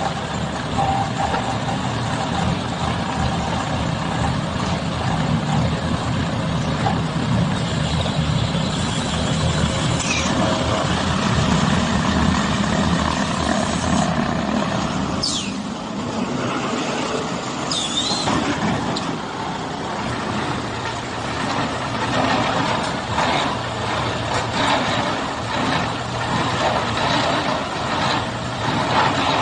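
Automatic corn silage baler-wrapper machine running, a steady mechanical clatter and hum, with a few brief high squeaks about halfway through.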